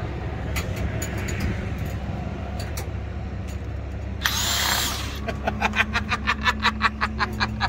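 Steady low hum of a car engine idling. About four seconds in comes a short burst of hiss, then a fast run of sharp clicks at about five a second, like a tool working in the paddock.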